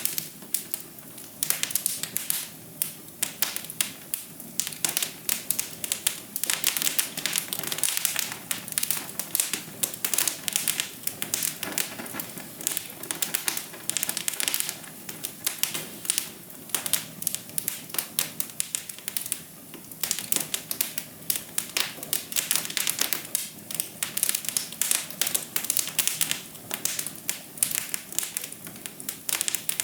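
Wood fire burning in a fireplace: dense, irregular crackles and pops over a soft steady hiss.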